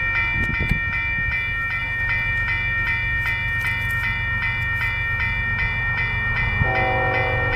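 A railroad bell rings steadily at about three strokes a second, most likely a grade-crossing warning bell, over a low rumble from an approaching train. Near the end, the horn of the approaching Union Pacific train's diesel locomotive sounds a chord of several notes.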